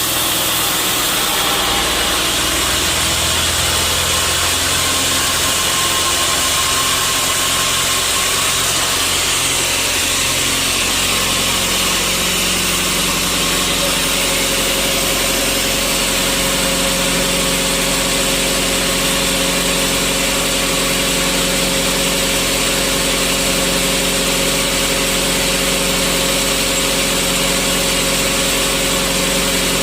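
Sawmill machinery running steadily as teak is sawn, its low hum changing pitch about twelve seconds in.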